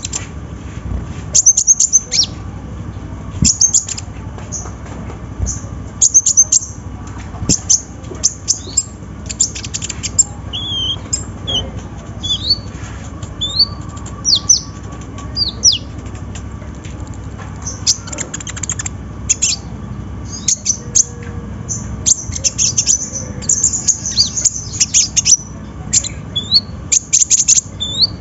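Kolibri ninja (konin) sunbird singing hard: a rapid run of sharp, high-pitched chirps, short trills and quick sliding whistles with hardly a pause.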